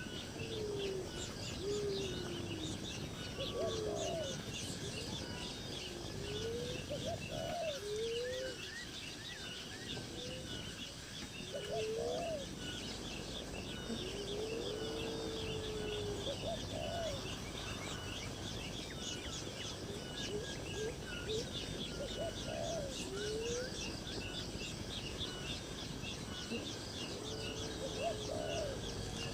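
Birds calling: a dense chatter of short high chirps throughout, with lower calls that rise and fall in pitch every second or few seconds.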